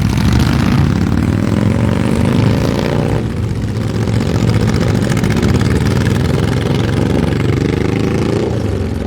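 Motor vehicle engine accelerating hard through the gears. Its pitch climbs for about three seconds and drops at a shift, then climbs again and drops near the end.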